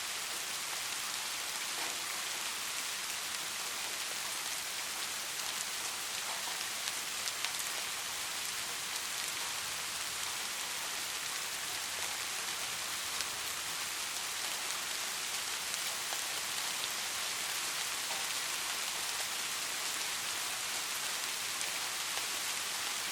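Steady rainfall: a dense, even hiss of rain with scattered individual drops ticking on surfaces.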